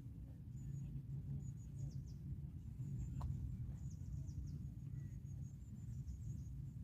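Faint outdoor ambience: short, high-pitched chirps repeating over a steady low rumble, with one brief click about three seconds in.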